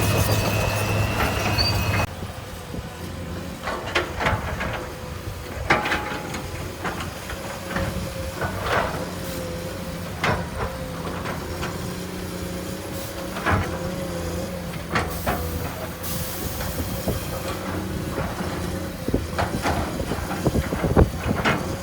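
Heavy earthmoving machine's diesel engine running steadily, with scattered sharp metallic clanks and knocks. The sound changes abruptly about two seconds in.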